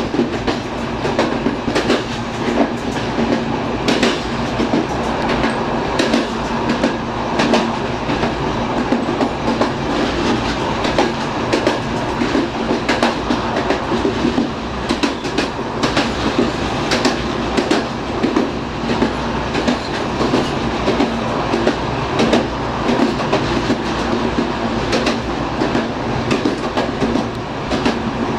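Electric multiple unit train running along the track, heard from inside its rear cab: steady running noise with a low hum and frequent irregular clicks as the wheels pass over rail joints.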